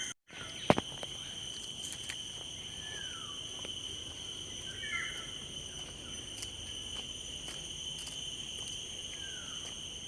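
Steady, high-pitched drone of insects (crickets or cicadas), with a few short falling bird whistles spaced through it. One sharp click sounds just under a second in.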